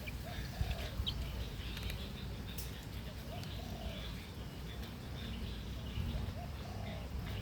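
Birds calling: short, low cooing notes in pairs, a pair about every three seconds, with faint high chirps, over a steady low rumble.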